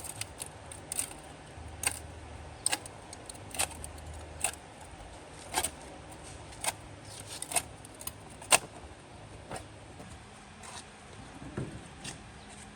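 A series of sharp, irregular clicks and taps, about one a second, the loudest a little past the middle, over a faint steady background.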